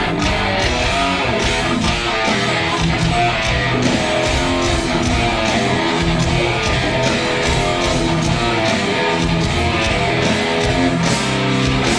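Rock band jamming a heavy, stop-start riff on electric guitars and bass, with drums hitting steadily underneath.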